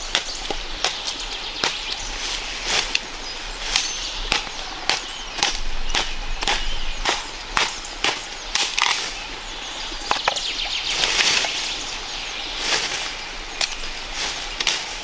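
Irregular sharp knocks and taps, sometimes several a second, over a steady hiss.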